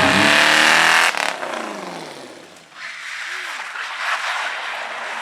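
Race car passing close under power, its engine note dropping as it goes by and fading away over about two seconds. A steady rushing noise follows.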